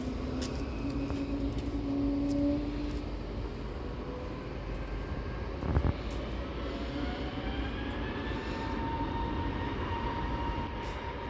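Jet engines of a Spirit Airlines Airbus airliner spooling up for takeoff: a steady rumble with whining tones that rise in pitch. There is a single thump about six seconds in.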